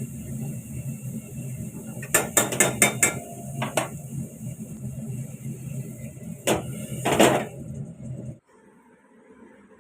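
A steady mechanical hum that cuts off suddenly near the end, with a quick run of sharp clicks about two seconds in and two louder clattering knocks later on.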